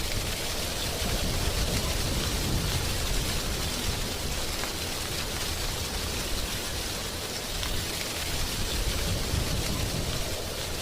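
Wind blowing through dry autumn tree leaves: a steady rustling hiss over a low wind rumble, swelling and easing gently.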